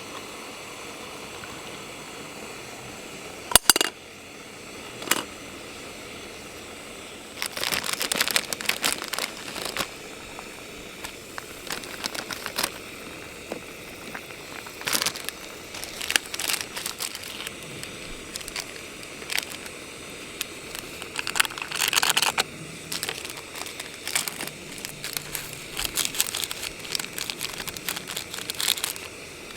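Plastic packaging crinkling and rustling in irregular bursts, with a single sharp click about three and a half seconds in, over a steady hiss.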